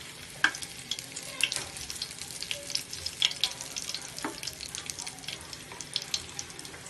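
Food frying in hot oil in a pan: a steady sizzle with frequent crackling pops, and a few sharper strokes that fit a utensil stirring it.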